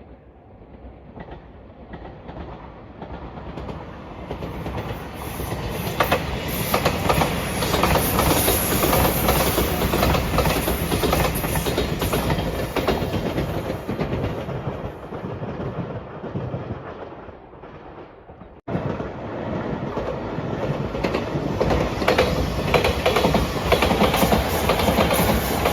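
Five-car Shiokaze limited express electric train passing at speed, its wheels clattering over the rail joints. The noise builds, holds and fades away. It cuts off abruptly about three-quarters of the way through, and another train is heard passing loudly.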